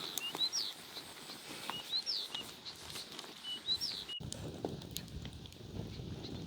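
A bird chirping a short phrase of rising notes, repeated about every second and a half. About four seconds in the sound cuts off sharply to low rustling and knocking.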